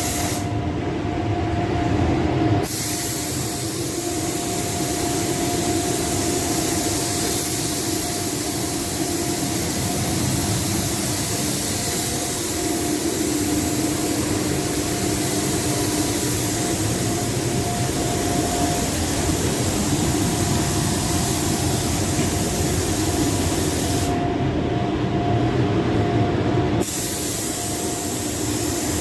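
Air spray gun hissing steadily as paint is sprayed on a car, with a steady hum under it. The high hiss breaks off twice: briefly about a second in, and for a few seconds near the end.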